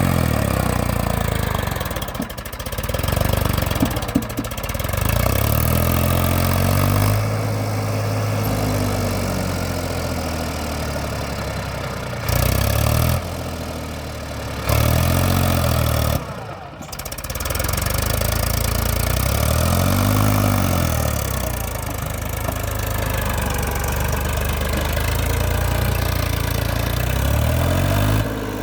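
Eicher tractor's diesel engine running under load and being revved again and again, its pitch rising and falling several times, with a few abrupt jumps in level.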